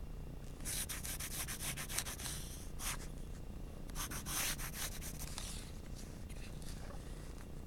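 Graphite pencil rubbing on paper in quick back-and-forth shading strokes, in two spells: one about a second in and another about four seconds in.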